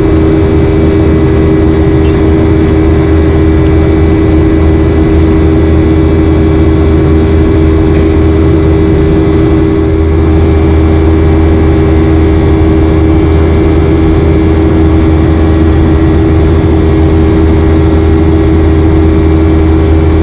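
Boeing 737-800's CFM56-7B jet engines heard from inside the cabin as a loud, steady drone with a low, even hum, as the airliner climbs out after takeoff.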